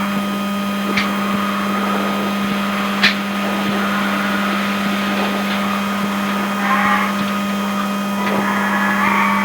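Skoda Enyaq RS Race electric race car heard from inside the cabin under way: a steady electric drivetrain hum and whine with road noise. Sharp knocks about one and three seconds in, and short squeals that slide in pitch near the end.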